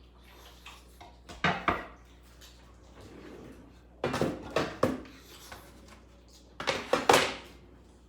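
Hard objects knocking and clattering in three short bursts, about a second and a half in, around the middle and near the end.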